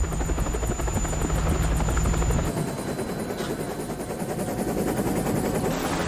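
Helicopter in flight, its rotor beating steadily; the deep rumble beneath it drops away about two and a half seconds in.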